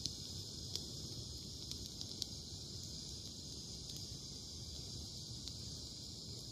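Wood bonfire crackling with a few sharp pops, over a steady high chirring of crickets.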